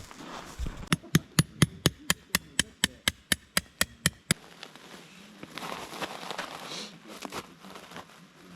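A quick run of about fifteen hammer blows, four or five a second, starting about a second in and stopping after about three seconds.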